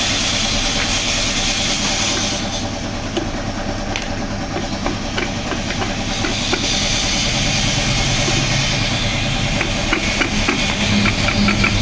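Steady engine-like mechanical hum with a hiss over it. Scattered light metal clicks and taps come through it, thicker in the second half, as engine parts are handled and fitted.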